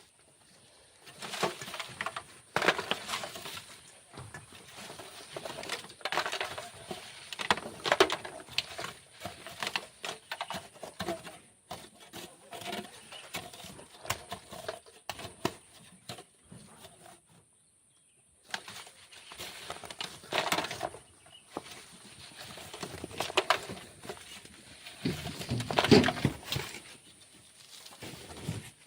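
Hand digging and shovelling of sand: irregular scrapes and knocks of a tool in sand, with a short lull past the middle.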